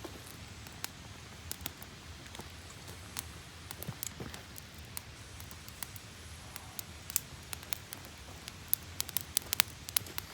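Wood campfire crackling: scattered sharp pops and snaps over a low steady hiss, coming thicker near the end as the fire catches.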